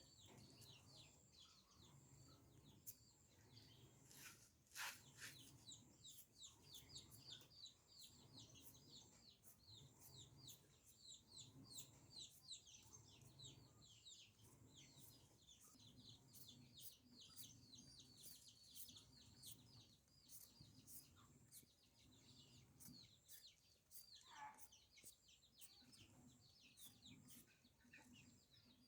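Faint chickens calling: low clucking under rapid, high chirping calls throughout, with one sharp knock about five seconds in.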